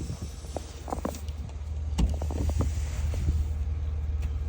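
Soft snow being cleared off a car by hand: scattered knocks and a brief soft brushing hiss over a steady low rumble.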